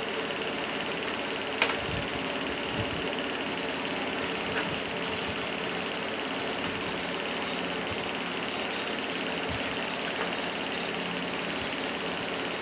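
A sharp metal click about a second and a half in, then a few light ticks, from hand work fitting a new chain's master link on a pit bike, over a steady mechanical hum.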